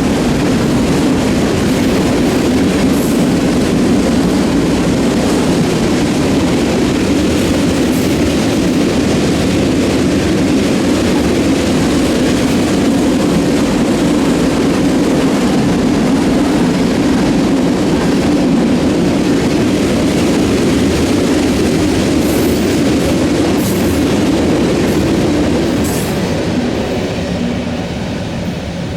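Freight train cars rolling past on the rails, a steady loud rumble of wheels on track that starts to fade near the end.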